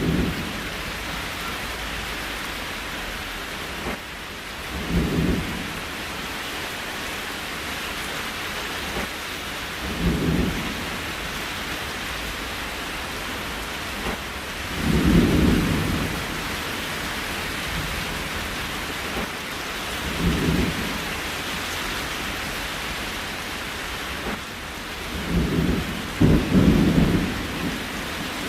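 Steady rain hiss with a short low rumble about every five seconds, two of them close together near the end.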